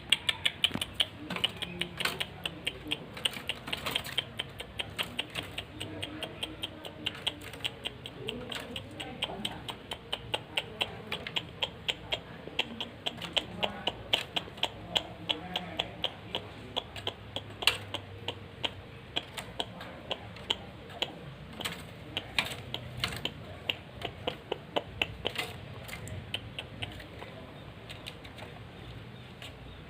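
Long-tailed shrike (cendet) giving a long run of sharp, clicking call notes, about three a second, in full active song; the notes thin out near the end.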